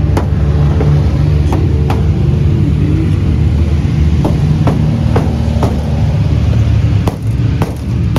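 Engines running with a steady low drone, with sharp knocks about once a second, like tools striking metal on a car being adjusted.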